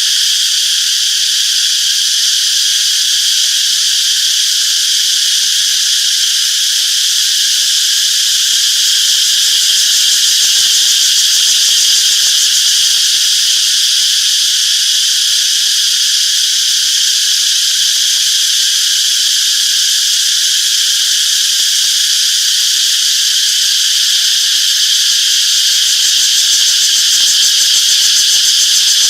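Summer chorus of cicadas: a continuous, steady, high-pitched drone.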